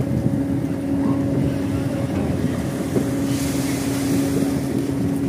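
A large diesel engine running steadily with a constant droning hum over a low rumble. There is a short hiss about three seconds in.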